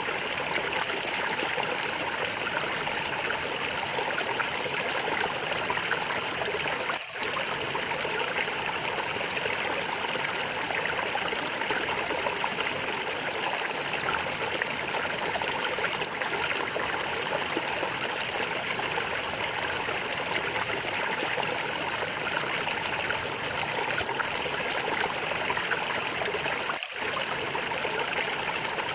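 A stream of water flowing and gurgling steadily, with two momentary dips in level, about seven seconds in and near the end.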